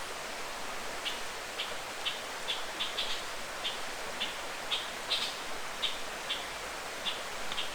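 A bird calling with short high chirps, irregularly about two a second, over a steady hiss of forest ambience.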